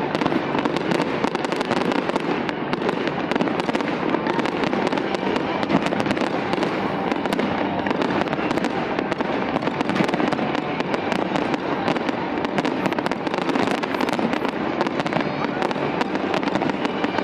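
Fireworks display: continuous dense crackling and popping, many small sharp cracks in quick succession at a steady level.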